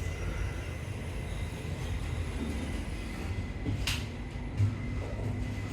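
Otis Regen glass traction lift car running with a steady low rumble. A sharp click comes about four seconds in and a short thump just after.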